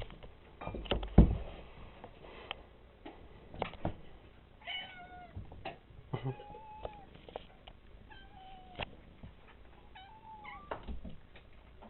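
Cats meowing repeatedly at feeding time, short rising-and-falling meows every second or two as they wait to be fed. A loud thump comes a little over a second in, with a few lighter knocks.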